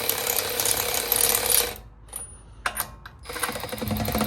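Ratchet wrench rapidly clicking as it runs lug nuts off a car wheel: a run of about two seconds, a pause broken by a couple of short bursts, then another run starting near the end.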